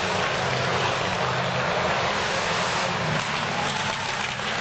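Antique motorcycle engines running steadily under an even rushing noise.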